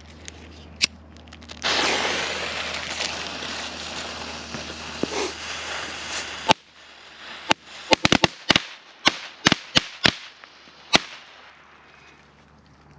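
Thunderbomb firecracker going off: a loud hiss lasting about five seconds, then a sharp bang, then a string of about a dozen more sharp bangs over the next four seconds or so.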